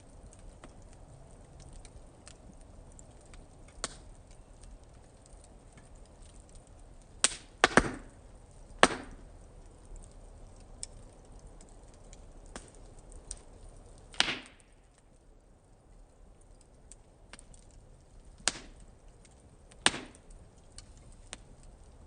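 Small wood fire on a fire pit stand, crackling with scattered sharp pops. About eight louder pops stand out, including a quick cluster about eight seconds in, over faint ticking and a low steady hiss.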